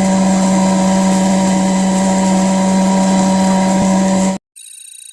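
Small 12 V high-speed DC motor of a homemade bottle vacuum cleaner running steadily, a constant hum and whine over a rushing hiss of air. It cuts off abruptly near the end, followed by a brief faint electronic tone.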